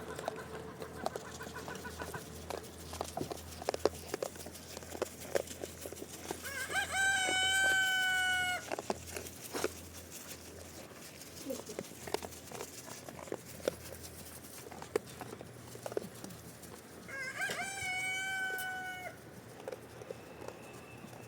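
Rooster crowing twice, each crow about two seconds long and about ten seconds apart, with scattered small clicks and knocks in between.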